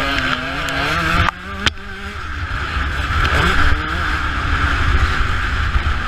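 Motocross bike engine revving up and down with the throttle, under heavy wind noise on the camera microphone. A little over a second in the engine note drops off suddenly and a sharp knock follows, then the wind rush and low rumble take over.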